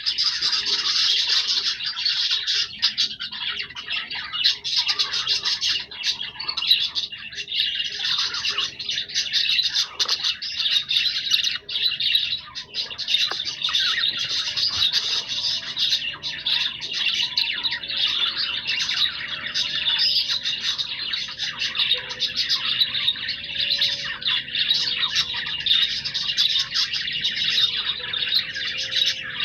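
Budgerigars chattering and warbling nonstop, many overlapping chirps.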